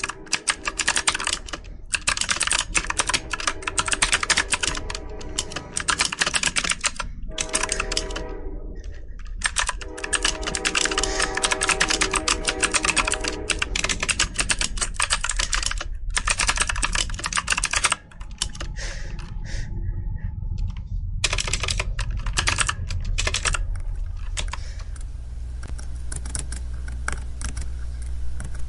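Rapid typing on a computer keyboard: a dense, continuous run of key clicks with a few short pauses. Near the end the clicks grow sparser and fainter under a low steady rumble.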